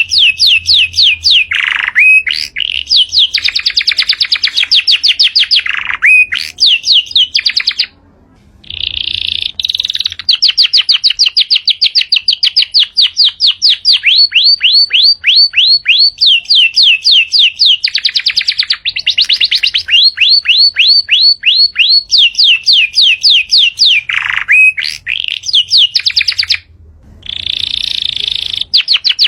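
Yorkshire canary singing a long, loud song of fast trills, runs of rapidly repeated notes, some with downward swoops. The song breaks off briefly twice, about eight seconds in and near the end.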